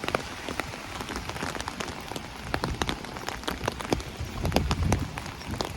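Steady rain with many irregular, sharp drop hits on an open umbrella overhead, against a soft hiss of rainfall.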